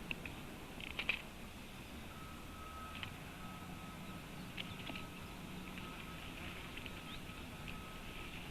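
A few short, sharp high bird call notes, loudest in a quick cluster about a second in, with scattered weaker ones later. Under them, from about two seconds in, a faint steady tone sounds in long beeps with short gaps.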